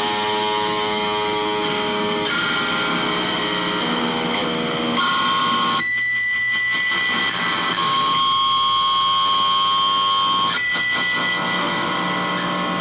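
Distorted electric guitar through effects, playing long sustained notes that change pitch every second or two.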